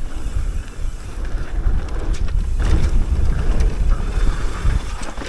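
Wind buffeting the microphone of a mountain bike descending a dirt trail, over an uneven low rumble, with scattered clicks and rattles from the bike.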